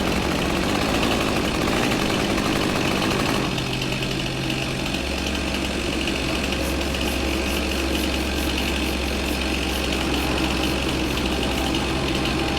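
An engine idling steadily, its low note shifting about five seconds in.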